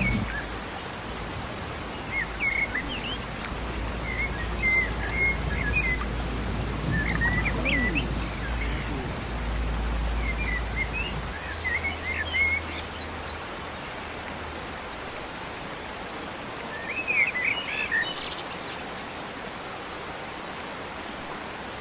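Birds chirping in short scattered bursts over a steady outdoor hiss, with a low rumble underneath that stops about halfway through.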